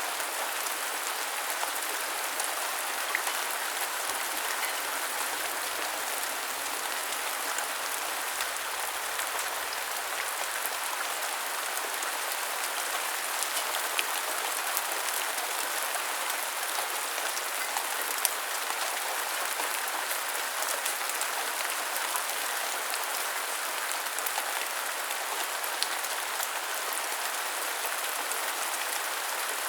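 Steady rain falling, an even hiss of many drops, with a few louder single drop hits standing out now and then.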